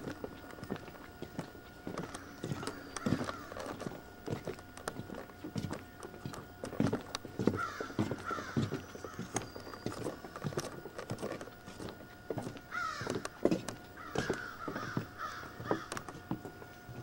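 Harsh bird calls, in short clusters a few seconds apart, over irregular knocking footsteps on a wooden boardwalk.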